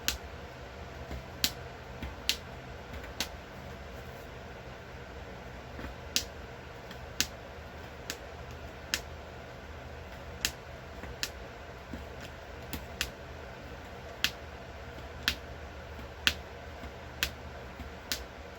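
A sharp point punching a row of stitching holes through a magnolia leaf, one crisp click for each hole, at an uneven pace of about one a second with a pause of a few seconds early on.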